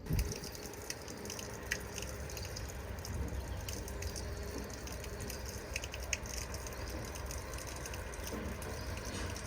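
Steady rush of running water, with a low rumble and a few sharp clicks.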